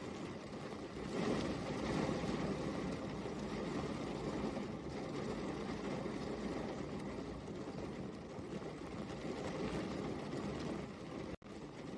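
Steady rain falling, an even rushing patter that swells a little about a second in. It cuts out for an instant near the end.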